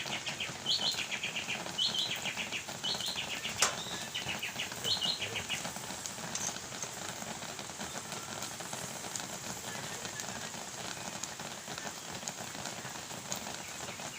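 A bird calls over and over, each call a high note followed by a quick falling run of clicks, about once a second for the first six seconds, then stops. Underneath runs a steady crackling hiss, with one sharp click partway through.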